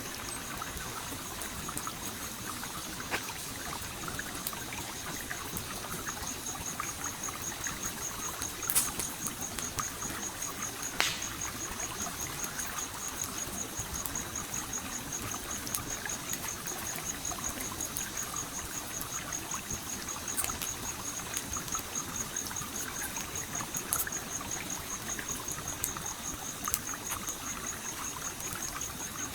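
A stream flowing and trickling steadily, with the sharp pops and cracks of a wood campfire now and then, the loudest about nine and eleven seconds in. A high, evenly pulsing chirp joins about six seconds in and keeps on.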